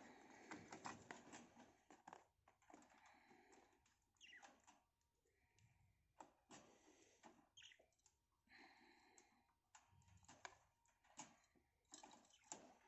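Budgerigars in a cage: faint, irregular clicking and scratching, with a few short soft chirps about five and nine seconds in.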